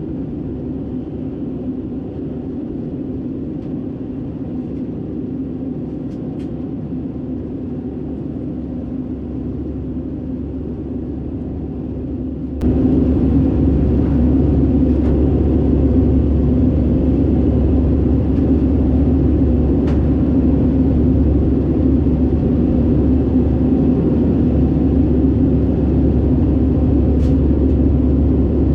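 Airbus A319 cabin noise from a window seat: a steady low rumble of the CFM56 jet engines and airflow. About halfway through it jumps suddenly louder and fuller in the bass, then holds steady.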